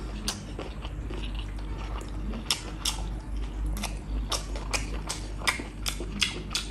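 Close-miked chewing of a mouthful of rice and beef: irregular wet mouth clicks and smacks, about two a second, over a low steady hum.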